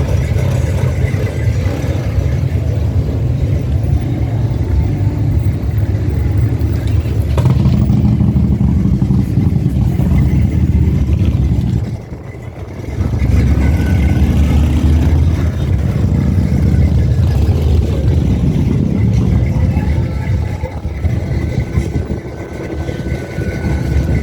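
Car engine running with a steady low exhaust rumble. It drops away briefly about halfway through, then picks up again.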